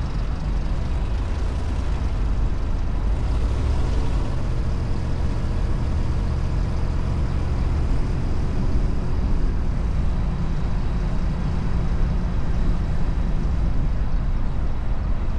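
A vehicle driving along at a steady pace: a constant low rumble of engine and road noise.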